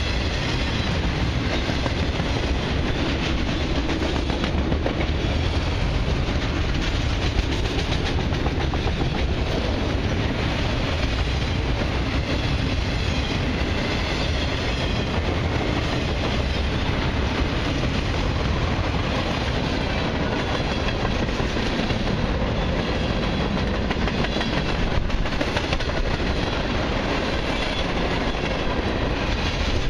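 Autorack and mixed freight cars of a long freight train rolling past close by: steady noise of steel wheels running on the rails, with no change in loudness.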